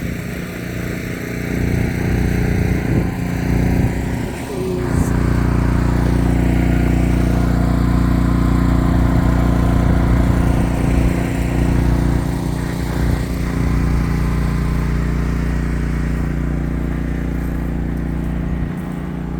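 Portable generator engine running steadily under load, growing louder about five seconds in and easing off somewhat near the end.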